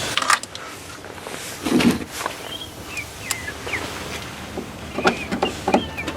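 Scattered clicks and knocks of hand tools and metal parts as bolts are started on a truck's wiper motor under the hood, with a duller thump about two seconds in. Short bird chirps come through in the background, twice.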